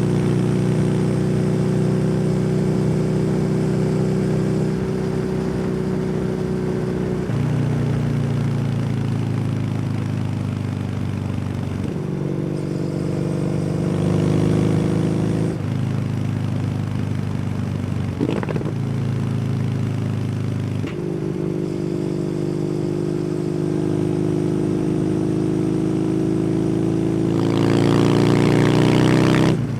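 Kawasaki W800's air-cooled 773 cc parallel-twin engine running through an SC Project exhaust while riding, the pitch stepping down and back up several times with gear changes and throttle. Near the end the revs climb steadily and loudly under acceleration, then break off suddenly at a shift.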